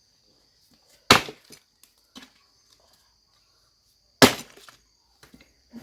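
Dry sticks of firewood cracking sharply twice, about three seconds apart, with a few smaller snaps and knocks of wood around them.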